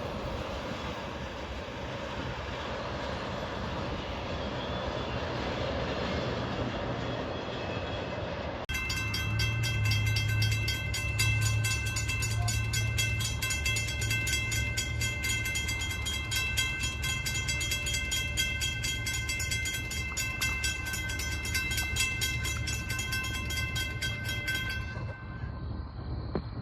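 Train passing on the line; about nine seconds in, a grade-crossing bell starts ringing rapidly and evenly over a low locomotive drone, and it cuts off near the end.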